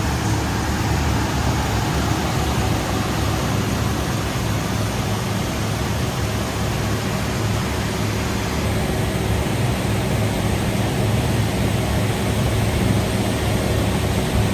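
Steady industrial machinery noise from a rock wool production line: an even rushing hiss over a low, constant hum.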